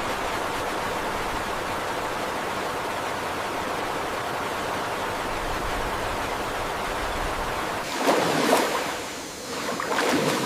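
Steady rushing noise, with several louder uneven swishes beginning about eight seconds in.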